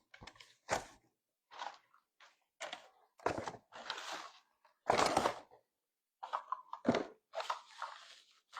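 A box and its packaging being handled and unpacked: a string of irregular crunches and knocks, the loudest about halfway through.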